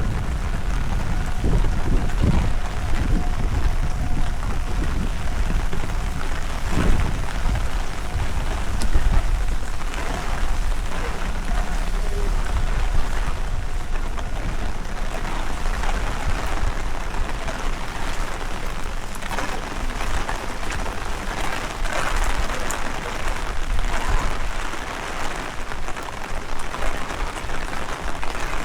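Heavy rain falling steadily and pattering on surfaces, with gusting wind rumbling on the microphone, strongest in the first several seconds.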